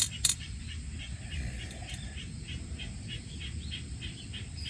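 Two sharp clicks right at the start, then an even run of short, high chirping calls, about four a second, over a steady low rumble.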